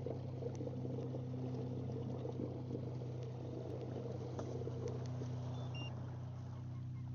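Boat motor running with a steady hum, over water rushing past the hull; the rush of water fades about five seconds in while the motor keeps running. A few short high chirps sound near the end.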